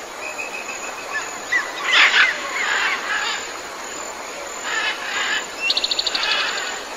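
Forest ambience with wild birds calling: short high chirps and whistles, loudest about two seconds in, and a fast trill of quickly repeated notes near the end.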